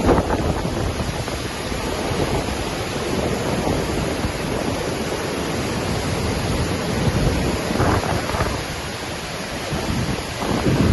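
Waterfall crashing in a steady roar of falling water, with gusts of wind buffeting the microphone.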